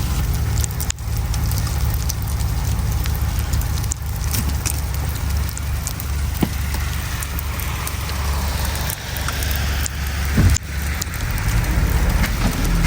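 Road noise of a Toyota Camry driving on a snowy road: a steady low rumble of engine and tyres, with scattered sharp ticks and crackles of snow and slush under the tyres.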